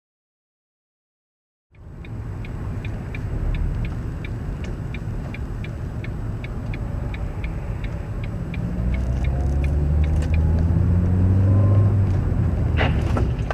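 After a second or two of silence, a car driving, with a steady light ticking about three times a second. From about eight seconds in, the engine note rises and grows louder as the car speeds up, and a sharp click comes near the end.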